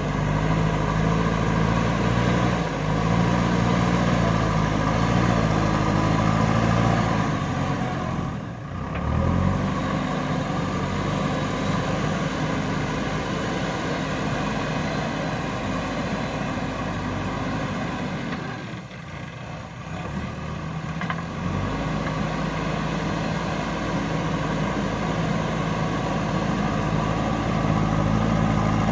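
JCB 3DX backhoe loader's diesel engine running as the machine works, its pitch shifting up and down. The engine note drops away briefly about eight seconds in and again for a couple of seconds around the twenty-second mark before picking back up.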